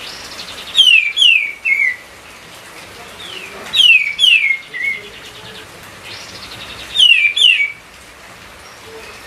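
A kapas tembak songbird singing in full voice: three phrases about three seconds apart, each a quick run of three or four falling whistled notes, with buzzy rasping notes between the phrases.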